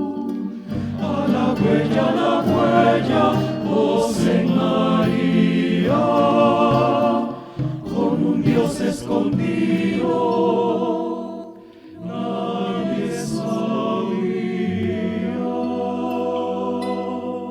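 Choir singing sustained chords, with a brief breath pause about eleven seconds in; the sound begins to die away near the end as a phrase closes.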